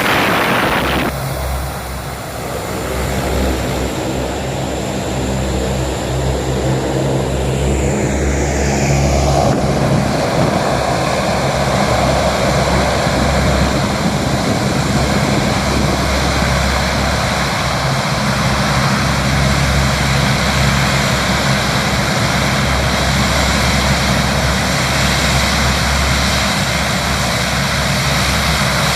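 Aircraft engines running steadily and loudly, with a high whine that drops sharply in pitch about eight seconds in.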